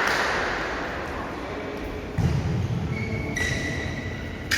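Futsal play on a court: the ball being kicked and bouncing amid players' movement, with a steady high squeak in the last second and a half.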